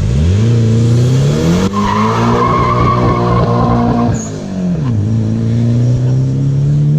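Nissan Z-car V6 engine revved hard through an aftermarket exhaust: it snaps up to high rpm and holds, drops back about four seconds in, then revs up again and holds.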